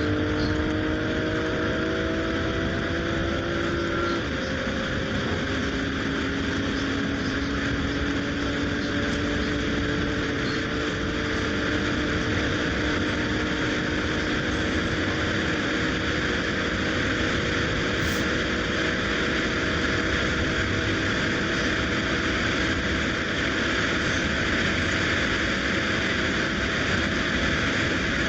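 BMW M340i's turbocharged straight-six, on an MHD Stage 2 tune, pulling at high autobahn speed. Its pitch climbs slowly, with a drop about four seconds in as it shifts up, over steady wind and tyre noise.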